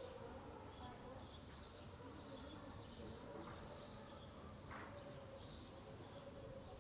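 Faint outdoor ambience of small birds chirping in short, repeated calls, over a low steady background hum and a faint murmur of distant voices.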